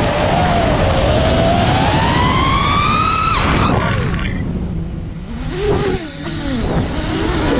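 The brushless motors of a 5-inch FPV racing quadcopter whining under throttle. The pitch climbs steadily for about three seconds, drops off suddenly as the throttle is cut, then wavers lower and quieter before picking up again near the end.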